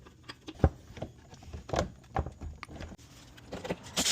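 Irregular metallic clicks and knocks as the oil drain bolt, fitted with a new crush washer, is put back into the oil pan and tightened. The sharpest click comes a little over half a second in.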